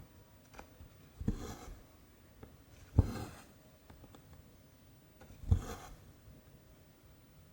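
Cross-stitch needle and cotton thread pulled through 14-count canvas, three times about two seconds apart: each a small tap followed by a short rasp of thread drawn through the fabric, the middle one loudest.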